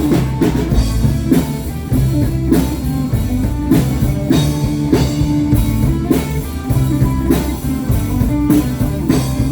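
Rock band playing live without vocals: electric guitar and bass over a steady drum kit beat.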